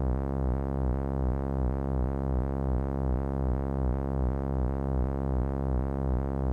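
Korg Monotron analog synthesizer holding a steady low note tuned near C, with an even pulsing wobble about three times a second.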